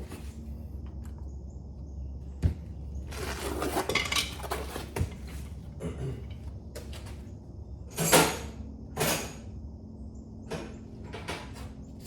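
Metal hand tools clinking and rattling: sockets and a ratchet being handled, in scattered clinks and short rattling bursts, the loudest about eight and nine seconds in. A low steady hum runs underneath.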